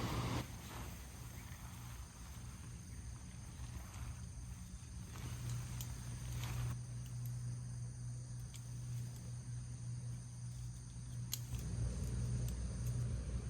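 Crickets and other night insects chirping steadily, over a low steady hum, with a few faint clicks.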